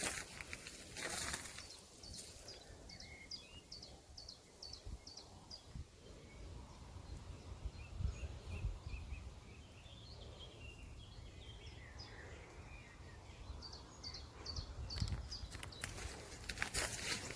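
Small birds singing: a run of short, high, falling notes at about three a second, heard twice, with quieter chirps in between, over a low outdoor rumble.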